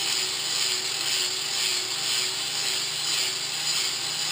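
Electric grinder running steadily against a forged steel socket arrowhead to square it up: a steady, slightly wavering whine over a hiss of grinding.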